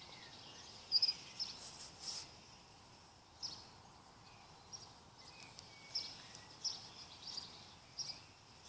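Small birds chirping now and then, short high calls every second or so over faint outdoor background noise.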